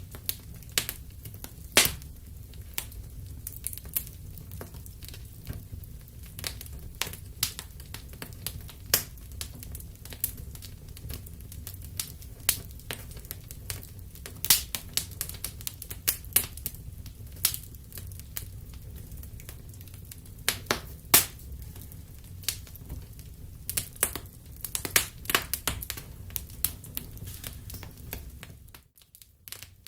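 Wood fire crackling in a fireplace: irregular sharp pops and snaps over a steady low rumble of the flames. The rumble drops out briefly near the end.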